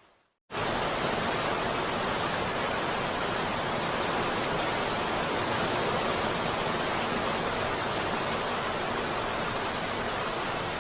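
Heavy rain as a steady, dense hiss, cutting in abruptly about half a second in after a moment of silence.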